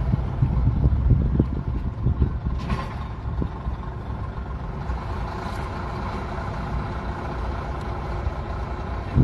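Heavy diesel equipment running steadily, with gusts of wind buffeting the microphone in the first couple of seconds and a brief hiss about three seconds in.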